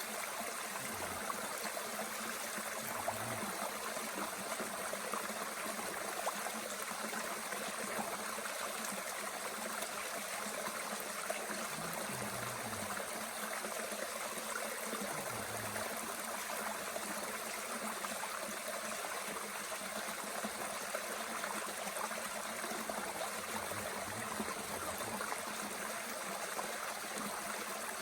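Mountain stream flowing steadily, with a few faint clicks now and then.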